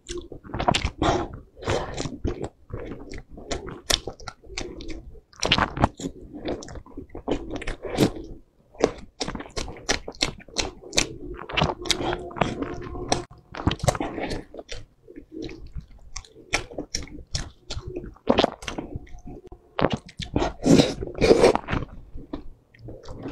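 Close-miked chewing of wide noodles in a thick sesame sauce: an irregular, continuous run of wet mouth clicks and squelches.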